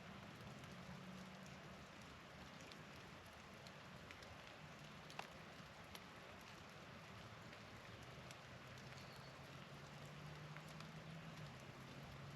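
Near silence: a faint steady hiss and low hum, with scattered light ticks.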